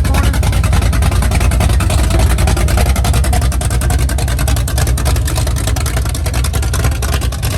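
Car engine running at low speed with a loud, steady, pulsing exhaust note as a car drives past.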